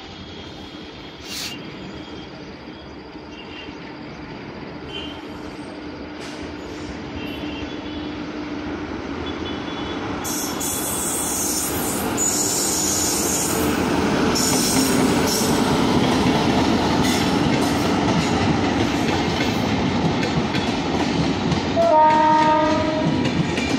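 Indian Railways WAP-7 electric locomotive and its passenger coaches approaching and running past, growing steadily louder, with wheels clattering over the rail joints. Near the end, a train horn sounds once, briefly.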